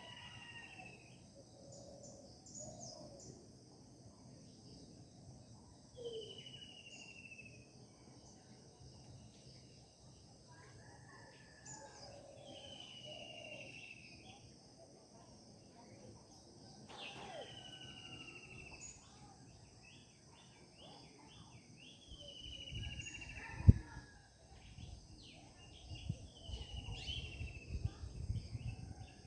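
Birds singing in the morning, one repeating a short, falling whistled note every few seconds among scattered chirps, over steady high insect chirring. Low rumbling and one sharp knock come in near the end.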